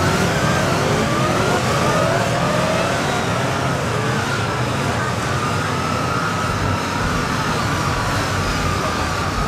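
Police motorcycle engines revving during a drill ride: the pitch rises again and again in quick climbs during the first few seconds, then settles into a steadier, slowly wavering engine note.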